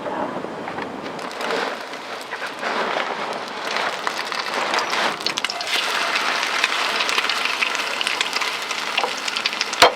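French toast sizzling and crackling in a frying pan, growing louder about three seconds in. A single sharp clack comes near the end.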